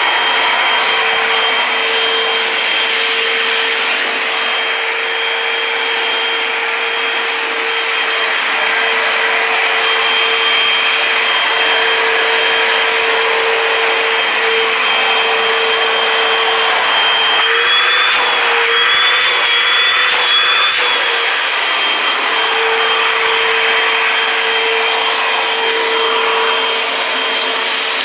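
Eureka AirSpeed Multicyclonic Pet bagless upright vacuum cleaner running steadily with a high whine. About two-thirds of the way through, the pitch wavers and there are a few clicks.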